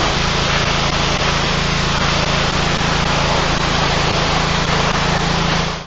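Pressure washer running steadily with a constant hiss of spraying water over a low motor hum; it cuts off suddenly near the end.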